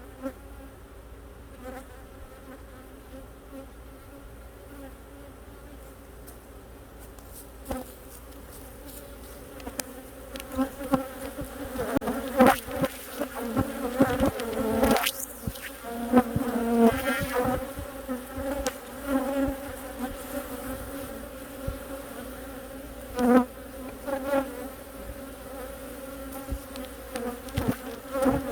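Honeybee colony buzzing steadily in an opened hive during a winter inspection. Scattered clicks, knocks and scrapes, louder from about ten seconds in, come from the brood frames being handled.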